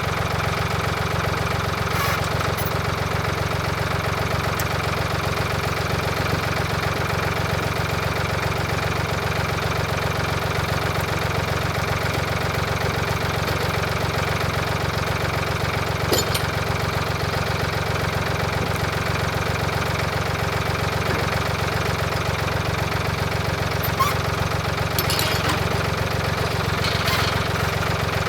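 An engine running steadily at a constant speed, with a few brief clacks over it.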